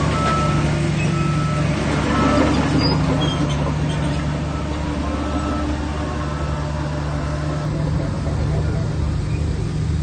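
Shantui bulldozer's diesel engine running steadily under work, with a few faint, short high tones over it.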